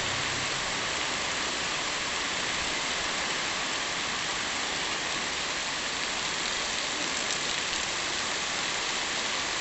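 Heavy rain falling, a steady, even hiss without pause.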